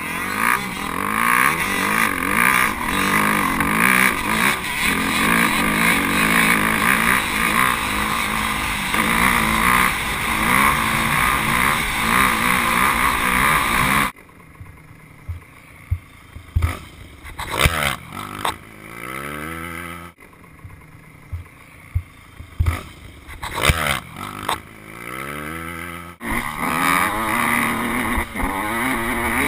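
Dirt bike engines running hard at high revs for the first half. Then an abrupt change to a quieter stretch where an engine revs up and down, with sharp loud spikes, before loud riding resumes near the end.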